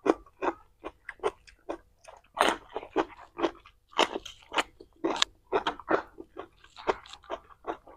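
Close-up crunching and chewing of raw cucumber: a run of sharp, crisp crunches, about three a second.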